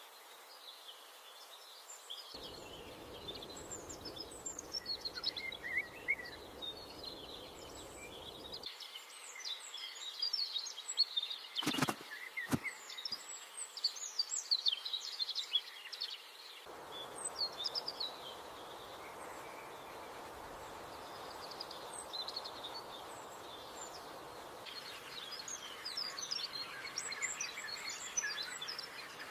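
Many small birds chirping and twittering in a rapid, high-pitched chorus, over faint outdoor background noise that changes abruptly several times. About twelve seconds in, a brief sound with a falling sweep cuts across it.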